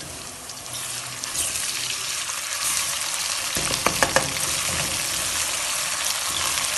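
Sliced onions and grated ginger sizzling in hot oil in a steel pot for a tadka, stirred with a metal spoon. The sizzle grows louder about a second in, with a few clicks of the spoon against the pot near the middle.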